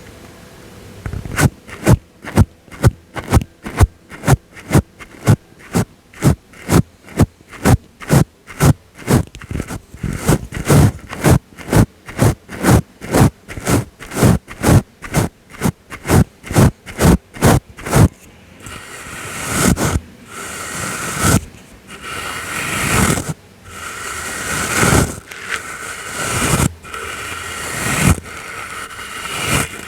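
Brush strokes close on the microphone for ASMR. About a second in, quick even scratchy strokes start at a little over two a second. From about two-thirds of the way through they give way to slower, longer swishing sweeps.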